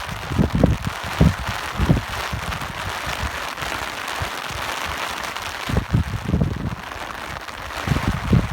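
Steady rain hiss with wind gusts buffeting the microphone in low, irregular rumbles during the first two seconds and again from about six seconds in.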